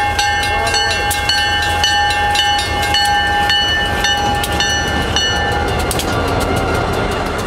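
Canadian Pacific diesel-hauled freight train passing close by: a steady low rumble of the locomotives, with the wheels clicking over the rail joints about twice a second. A held horn tone sounds until about six seconds in, then stops.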